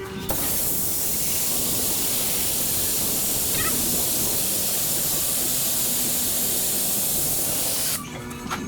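Compressed air hissing steadily from an air tool for about eight seconds, starting and stopping abruptly.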